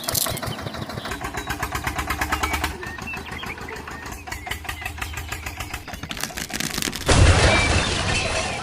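A small engine running with a fast, even chugging rhythm, followed about seven seconds in by a sudden, louder rushing noise.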